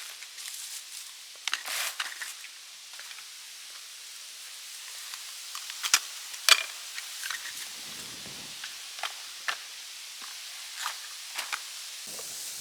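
Light rustling broken by scattered sharp clicks and crackles, two of them louder about six seconds in.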